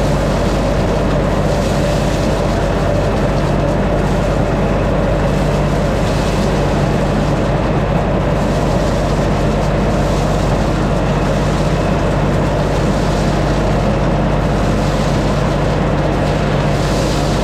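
LS MT357 compact tractor's diesel engine running steadily under load, with no change in pitch or level.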